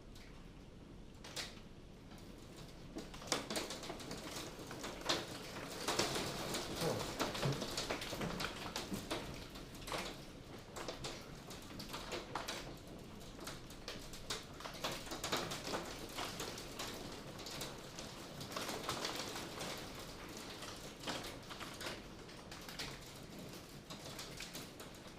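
Hail falling hard: a dense, irregular rattle of hailstones clicking and knocking on hard surfaces, swelling a few seconds in and easing a little near the end.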